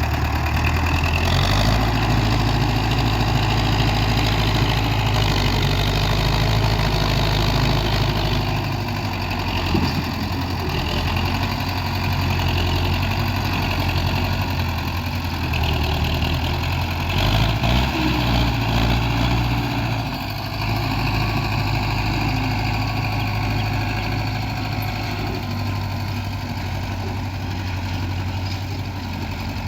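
Belarus tractor's diesel engine running steadily, its low note changing about a third of the way in and again a little past halfway.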